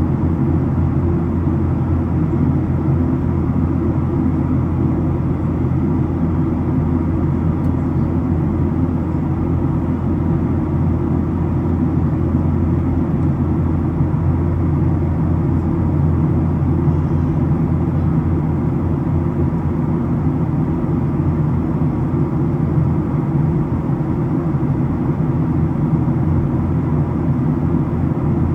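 Steady low drone inside the cabin of a Boeing 737-700, the CFM56 engines and airflow heard through the fuselage. It holds an even level with no change in pitch.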